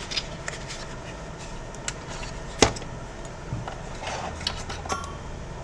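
Scattered light clicks and taps as the insides of an Xbox One S console are handled during disassembly, with one sharper click about two and a half seconds in.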